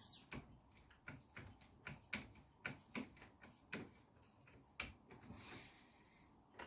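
Faint, irregular light clicks and taps, about two a second, as the threaded outer tube of a motorcycle upside-down fork is unscrewed by hand, followed by a brief rustling scrape near the end.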